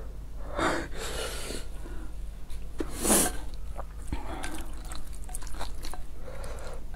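Close-miked eating sounds: wet chewing and mouth noises over a mouthful of thick sauced noodles, with a short, louder wet burst about three seconds in. A few light clicks of chopsticks against the plate.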